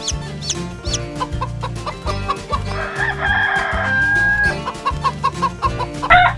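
A rooster crowing once about three seconds in, then hens clucking in a quick run of short notes, with a second crow starting near the end, over background music with a steady beat.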